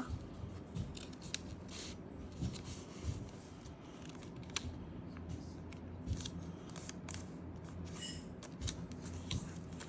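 A sheet of colored paper being handled and folded by hand: scattered soft rustles and short crisp creasing strokes at irregular intervals.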